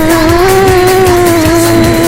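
Bugs 6 FPV racing drone's motors whining in flight, the pitch gliding up and down as the throttle changes.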